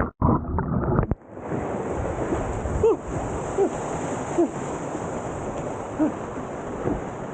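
Steady rush of falling water from a waterfall, which changes abruptly about a second in, with several short falling squeaks over it.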